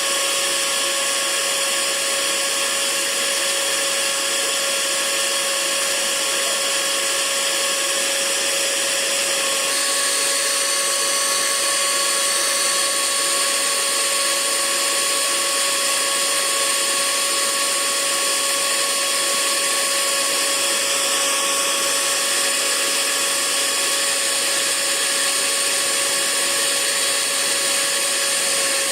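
Hair dryer running steadily: an even rush of air with a steady motor whine over it, its pitch shifting slightly about ten seconds in.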